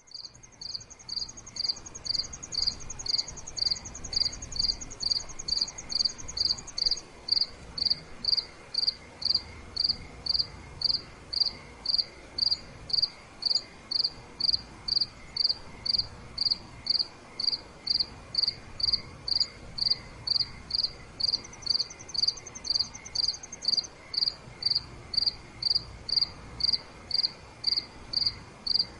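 Crickets chirping in a steady, even rhythm, a little under two chirps a second. A second, higher trill runs alongside for the first several seconds and returns briefly about two-thirds of the way through.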